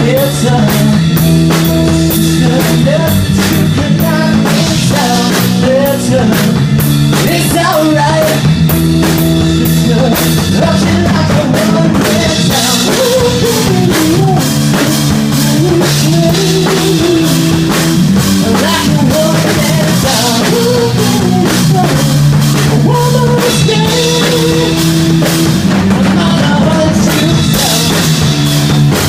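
Rock band demo playing loud and steady: a drum kit keeping a busy beat under sustained bass and guitar notes, with a melody line weaving over the top.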